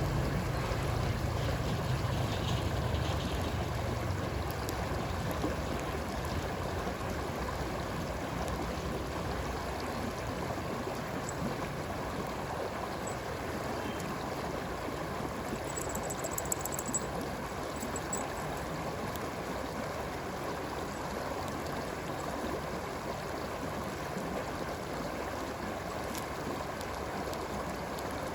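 A stream flowing steadily, an even rushing of water, with a low rumble in the first few seconds that fades away. About sixteen seconds in there is a brief cluster of faint high crackles.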